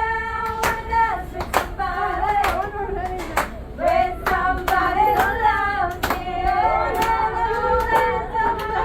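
Buffet staff singing a short song, with steady hand claps roughly once a second.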